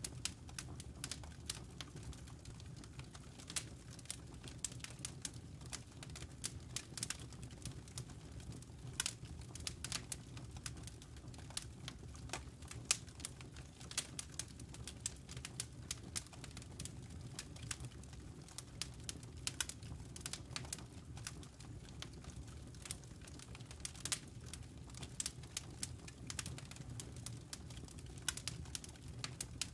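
Campfire crackling: irregular sharp pops and snaps from the burning wood and embers, over a steady low rumble.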